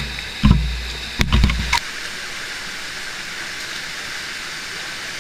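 Steady rushing of water from the waterfall and its stream, an even hiss. A few loud low thumps on the microphone come in the first two seconds.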